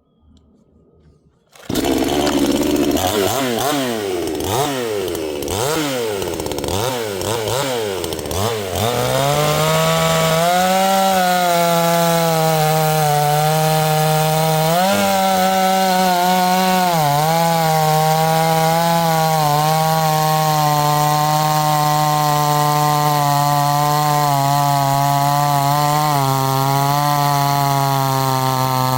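A 62cc two-stroke chainsaw comes in suddenly about two seconds in and is revved up and down repeatedly. From about nine seconds it is held at a steady high pitch through a cut, dipping briefly a couple of times under load.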